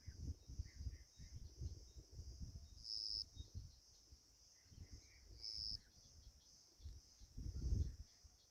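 Faint outdoor ambience: insects keeping up a steady high trill that swells louder briefly twice, about three and five and a half seconds in, with a few faint bird chirps and an uneven low rumble underneath.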